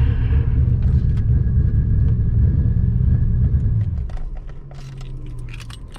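Twin-turbo Terminator Cobra's 4.6-litre V8 rumbling at low speed, then dropping away sharply about four seconds in as the engine is shut off, followed by a fainter hum and a few light clicks.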